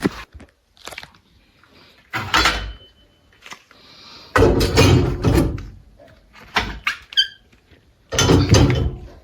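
A series of knocks and thuds from things being handled around the house, with a brief squeak about seven seconds in.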